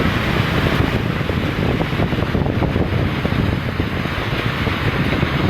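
Strong wind rumbling and buffeting on the microphone over a steady hiss of heavy rain.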